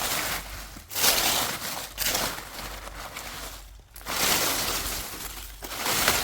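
Dry leaf litter crunching and rustling in repeated bursts of about a second each, with short pauses between them.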